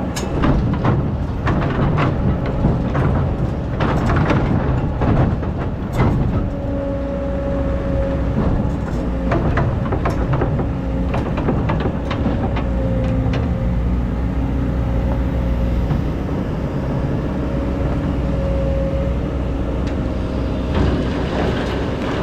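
Excavator's diesel engine running under load as the bucket scrapes and knocks through hard, compacted old sand. Sharp knocks and scrapes come thick in the first six seconds and again near the end, and a steady whine carries on through the middle.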